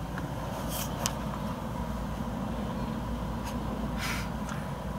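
Mini Cooper S F56's 2.0-litre turbocharged four-cylinder idling while stopped in traffic, heard from inside the cabin as a steady low hum. A few faint short hisses come through about a second in and again near the end.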